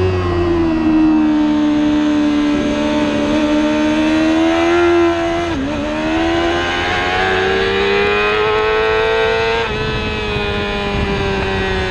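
Race motorcycle engine running hard at high revs, its note dipping sharply and briefly twice, once right at the start and again about halfway, as with gear changes. The pitch then climbs slowly and steps down near the end.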